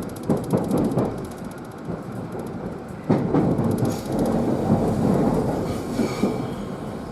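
A train moving through a station with a low rumble, its wheels knocking over the rail joints, strongest near the start and again about three seconds in.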